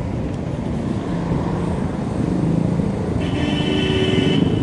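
Steady wind and road rumble on the microphone of a moving bicycle. About three seconds in comes a high-pitched squeal, with a stack of tones, that lasts about a second and then stops.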